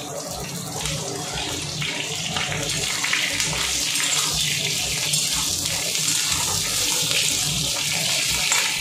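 Aubergine pieces frying in hot oil in an aluminium kadai: a steady sizzle that grows louder a few seconds in and holds.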